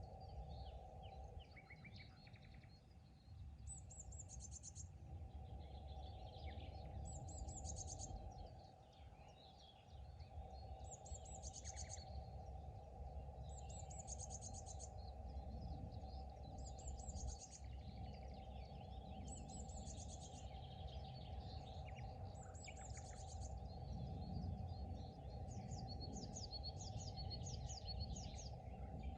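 Several wild birds singing, one repeating a short high phrase every few seconds while others call in between, over a steady low hum and rumble.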